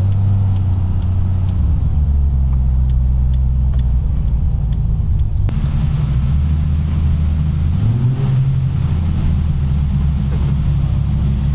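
Heavily modified 1000 hp Nissan Patrol's engine running under way, heard as a loud low drone whose pitch shifts about two seconds in and again near eight seconds as the revs change.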